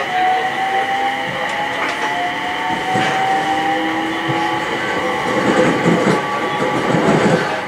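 Aoimori Railway electric train running, heard from inside the carriage: a steady ride noise with a motor whine that slowly rises in pitch as the train gathers speed, a few sharp clicks from the rails, and more rumble near the end.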